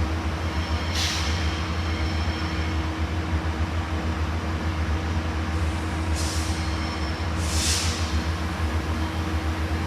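Idling diesel train engine with a steady low rumble and hum, with three short hisses of released air, about one second in and twice more near the end.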